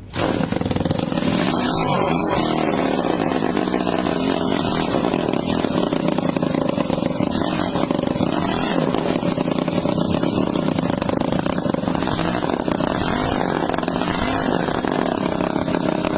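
Miniature single-cylinder engine bursting into life and running fast and steady, its pitch swelling and dipping slightly a few times as the speed wavers.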